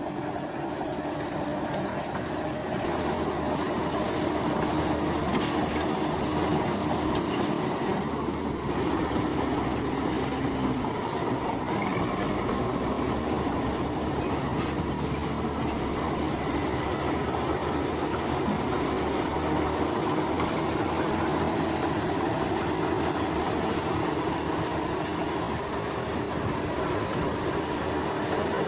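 Crawler bulldozer at work: its diesel engine runs steadily under the continuous metallic clatter and high-pitched squeal of its steel tracks.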